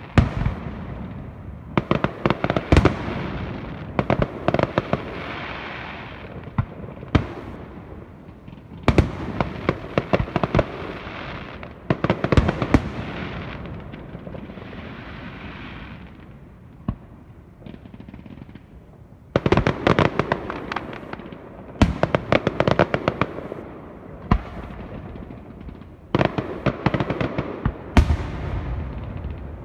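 Aerial fireworks display: shells bursting in volleys of sharp bangs and rapid crackling, each volley trailing off in echoing rumble, with a quieter lull in the middle.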